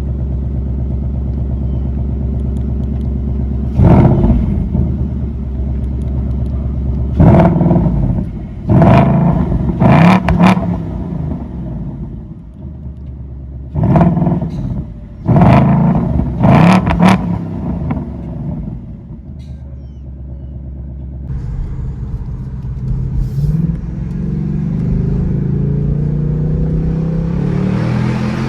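2026 Ford Mustang GT's 5.0 Coyote V8 running steadily, then about eight short, very loud revs in quick clusters. Near the end it pulls in one long, rising run.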